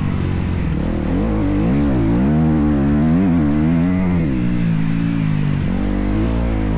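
Motocross bike engine running hard under a rider, its revs rising and falling quickly as the throttle is worked, then steadier near the end.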